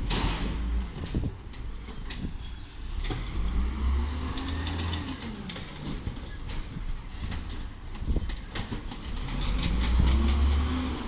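Volvo VED7 diesel engine of a 1995 WhiteGMC automated side-loader garbage truck revving up and back down twice, with scattered knocks and clanks.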